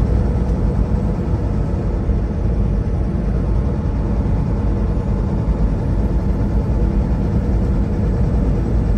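Semi-truck engine and road noise while driving: a steady low rumble.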